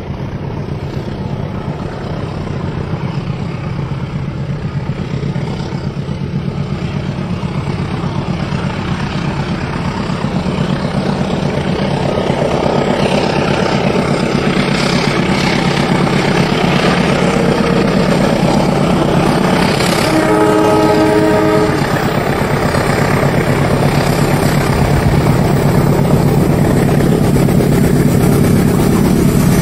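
Train running on the rails, a steady rumble that slowly grows louder, with a train horn sounding once for about a second and a half around twenty seconds in.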